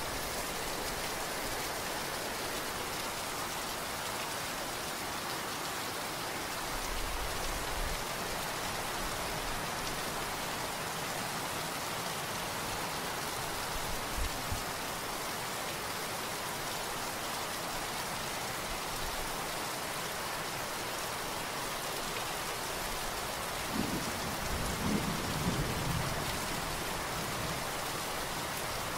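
Steady rain falling, an even hiss, with a low rumble of thunder near the end.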